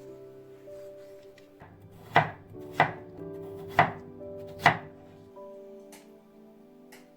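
Knife chopping on a cutting board: four sharp chops roughly a second apart, then a couple of faint taps, over soft background music.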